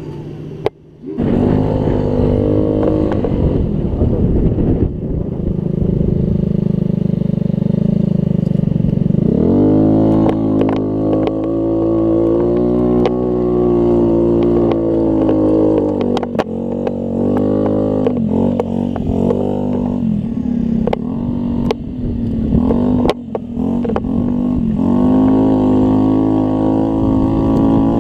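Scooter engine running under way, starting about a second in. Its pitch climbs and drops repeatedly as the throttle is opened and eased off.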